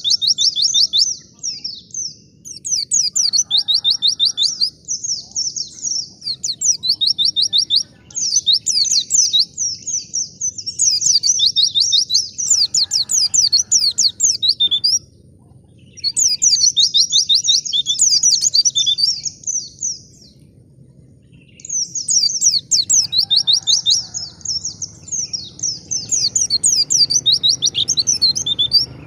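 White-eye (pleci) singing long, rapid runs of high twittering chirps. The song breaks off briefly about halfway through, then stops again for about two seconds a little after two-thirds of the way.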